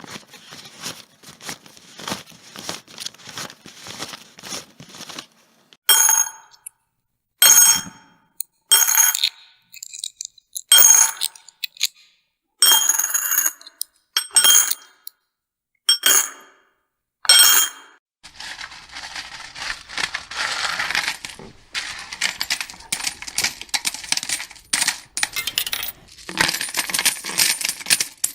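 Coins: first a run of quick small clicks, then about nine separate coin drops that each clink and ring briefly, then a long, dense clatter of many coins pouring and jingling together.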